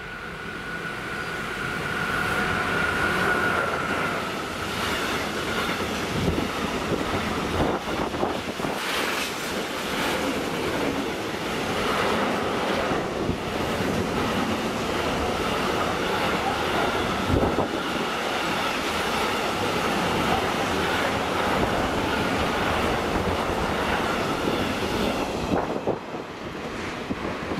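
Electric-hauled container freight train passing close by. It builds as the locomotive nears with a high steady tone, then a long string of wagons rolls past with repeated wheel clatter and some wheel squeal. The sound drops off sharply near the end as the last wagon goes by.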